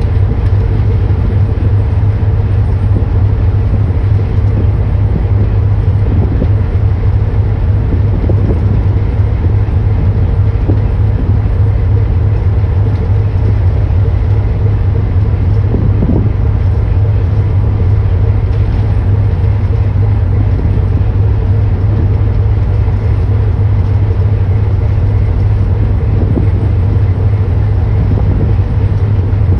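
A boat's engine running steadily: a constant low drone under an even wash of noise that stays the same throughout.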